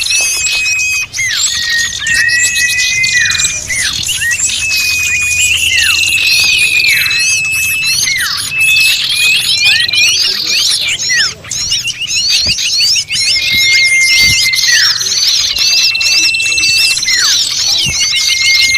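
Bird-lure recording of a busy chorus of small birds, many overlapping quick chirps and alarm-like squeaks with no break. Through it run long, level whistled notes, each ending in a sharp downward slide, repeated every second or two.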